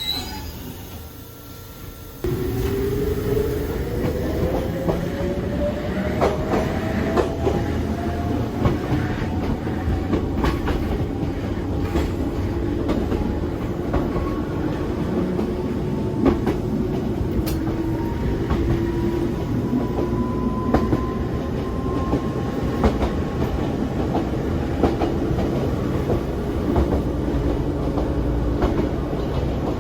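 Nankai 2200-series train running and picking up speed: from about two seconds in, a motor whine rises slowly and steadily in pitch, over the rumble of the running train and the clacks of wheels over rail joints.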